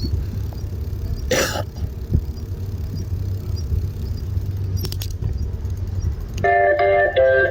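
Steady low rumble of wind and road noise from riding, with a short hiss about a second and a half in and a few faint clicks later. Guitar music starts up near the end.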